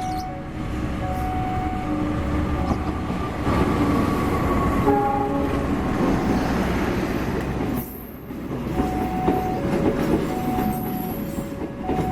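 A train passing, with a loud rushing clatter of wheels and carriages that is heaviest from about three and a half to eight seconds in. A repeating two-note alarm tone sounds through the quieter stretches.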